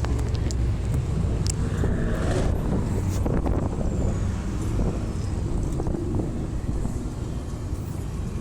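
Car engines running, a steady low rumble with a few scattered clicks.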